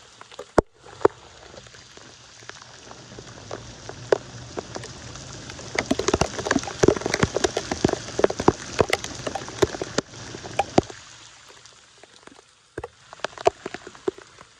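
Water splashing and pattering, with many sharp ticks over a steady hiss; the ticks grow busiest in the middle and thin out near the end.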